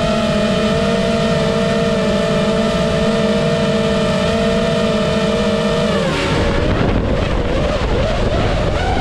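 7-inch FPV quadcopter's motors and propellers whining at a steady pitch in flight; about six seconds in the steady whine breaks up into wavering, shifting pitches as the throttle changes.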